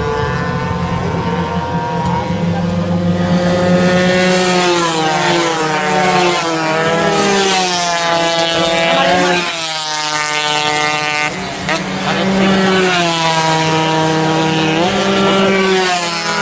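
Several two-stroke 120cc race motorcycles at high revs, their overlapping engine notes climbing through the gears and dropping sharply at each shift, with a big drop in pitch about two-thirds of the way in.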